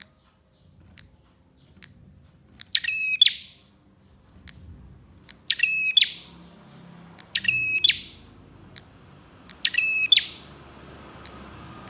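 Prenjak (prinia) calling: four short, rapid chattering bursts about two seconds apart, with single sharp ticks in between.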